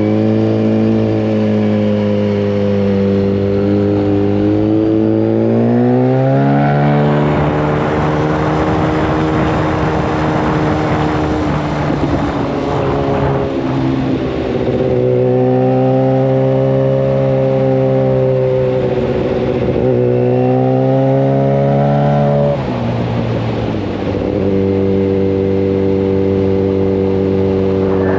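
Yamaha FZ1 Fazer's inline-four engine through a Mivv GP exhaust with the dB killer removed, running under load as the motorcycle rides. The revs climb and ease repeatedly, with a sudden drop in pitch about three-quarters through, and a rushing noise over the engine in the middle stretch.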